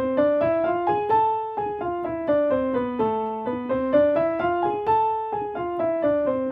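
Piano playing the A harmonic minor scale with both hands an octave apart, running up and down in a syncopated rhythm.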